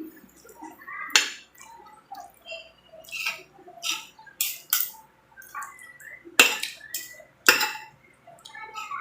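Cutlery clinking and scraping against a plate or bowl during a meal: a string of irregular clinks, the loudest about a second in and twice more near the end.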